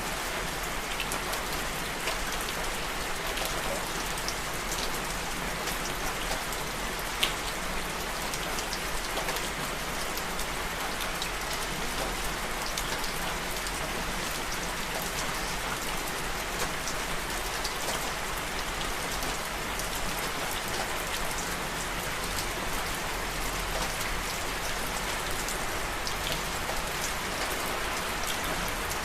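Steady rain falling, an even hiss with many separate drops ticking close by; one sharper drop stands out about seven seconds in.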